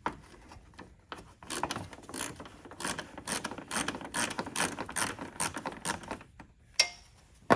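Hand ratchet clicking in quick, even strokes, about four or five a second, as it loosens a screw. A few single clicks follow near the end.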